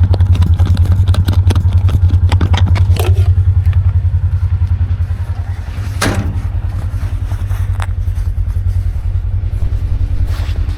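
Side-by-side UTV engine idling with a steady low pulsing, with a few knocks and clatter over it in the first seconds.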